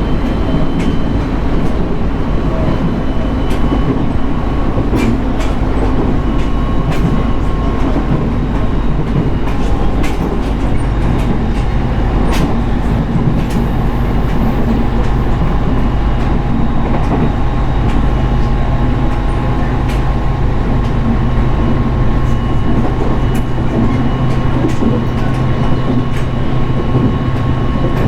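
Cabin running sound of a JR East 701 series electric train at speed: a steady rumble of wheels on rail with scattered faint clicks from the track and a faint steady whine.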